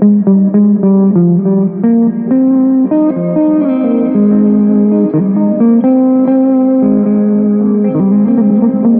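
Guitar music: a continuous line of plucked notes, mostly single notes, with a few notes bent or slid in pitch.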